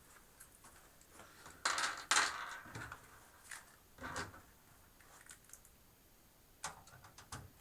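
Scattered metallic clinks and knocks of parts and screws being handled inside a steel computer case. The loudest is a double clatter about two seconds in, with lighter taps later.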